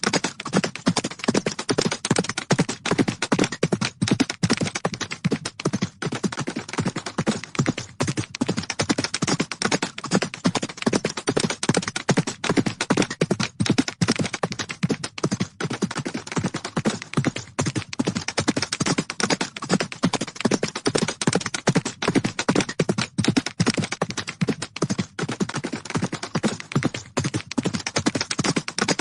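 Horses' hooves galloping: a dense, rapid, unbroken run of hoofbeats.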